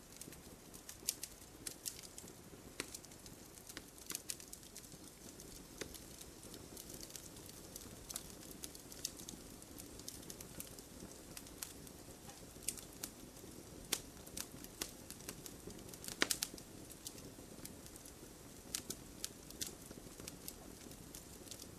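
Wood fire in a fireplace crackling, with scattered sharp pops over a low, steady sound of the burning; a cluster of louder pops comes about sixteen seconds in.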